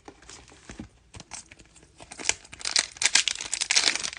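Foil trading-card pack being handled and torn open, with light crinkling at first and a louder stretch of tearing and crinkling about halfway through.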